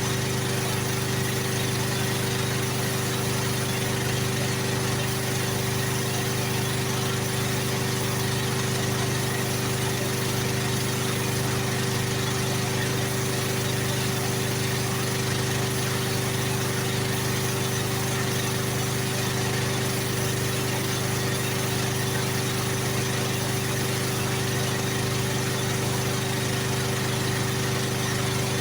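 A motor-driven machine running steadily: an even, unchanging hum with a constant high tone above it.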